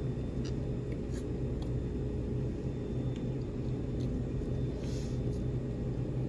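Steady low hum of a room, with scattered small clicks and a short rustle about five seconds in, as someone eats at the table.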